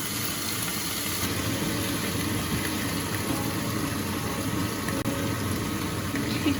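Steady sizzling hiss and low hum of food cooking in a pan on a stovetop.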